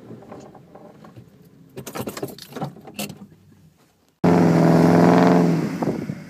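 A run of light clicks and rattles. About four seconds in, a vehicle engine sound starts suddenly and loud, with a steady pitch, and fades near the end.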